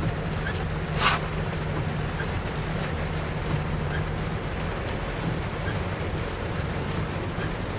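Scania K410iB double-decker bus's diesel engine running with a steady low rumble and a hum that holds for about four seconds and then wavers. A short hiss comes about a second in.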